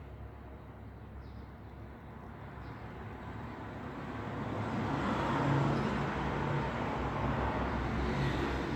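Road traffic noise: a steady low rumble of vehicles and tyres that swells as a vehicle draws closer, growing louder from about halfway through.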